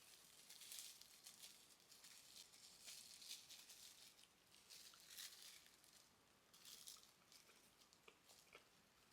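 Faint, quick scratchy rustles repeating for several seconds, then a few light clicks near the end.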